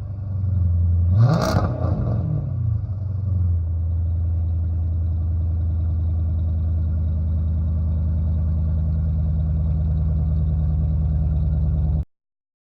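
Dodge Charger R/T's 5.7 Hemi V8 through Flowmaster Super 10 mufflers with the mid muffler deleted: a quick rev about a second in, then a steady deep idle after a cold start. The sound stops abruptly near the end.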